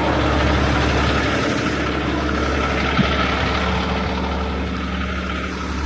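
Heavy rotator tow truck's diesel engine running steadily with a deep hum, powering the hydraulics while a load is suspended.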